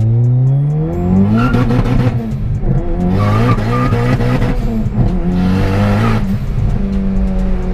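Turbocharged Acura ILX engine revving hard under acceleration, its pitch climbing and breaking three times, with a loud hissing, squealing burst at each break, then settling to a steady drone near the end. The owner suspects a failing clutch or transmission in this car.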